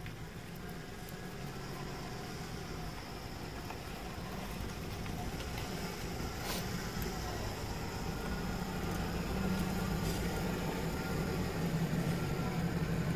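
Low, steady vehicle engine hum heard from inside a van's cabin, growing gradually louder, with one sharp click about six and a half seconds in.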